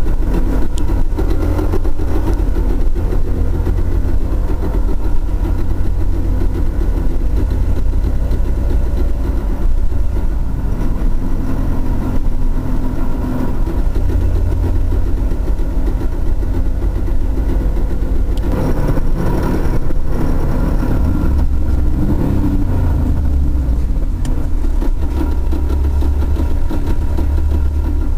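Pontiac Trans Am's V8 running steadily with its T56 six-speed manual transmission making abnormal mechanical noises, which the owner calls gnarly and means to pull the transmission to find the cause. About two-thirds of the way through the sound briefly grows louder and rougher, then settles again.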